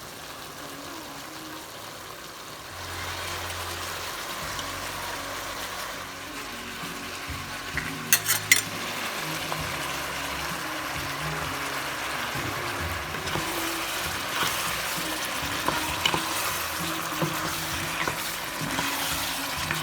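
Floured chicken pieces frying in hot oil in a pan, a steady sizzle that grows louder about three seconds in. A few sharp clinks of a utensil against the pan come about eight seconds in.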